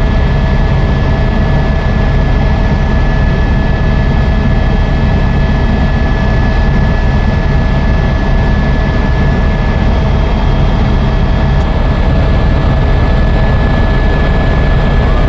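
Helicopter running steadily in flight: a constant low rotor and engine drone with a steady high whine on top.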